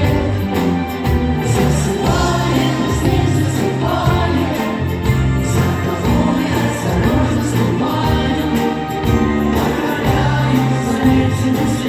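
Vocal-instrumental ensemble playing live: several voices singing together over bass notes and a steady beat.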